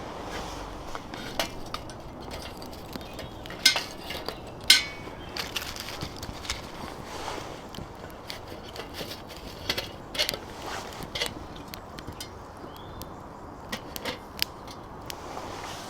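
Light metal clinks and knocks of camp cookware being handled on a twig stove, scattered and irregular over a low steady hiss, with the two loudest knocks about four and five seconds in.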